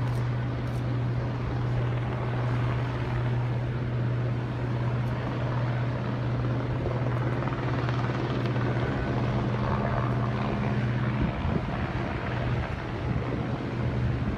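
Helicopter flying, a steady low drone that turns more uneven and wavering about three quarters of the way through.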